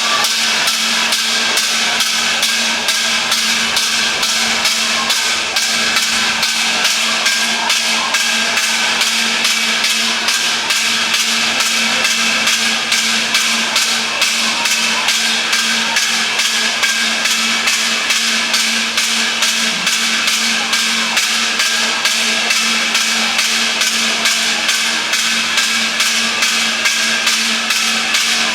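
Steady, rapid repeated striking, about four strikes a second, over a constant hum.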